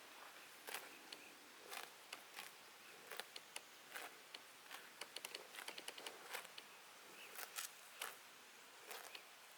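Grazing livestock: irregular crisp crunches and tearing clicks of grass being cropped and chewed, some in quick clusters, over a faint even hiss.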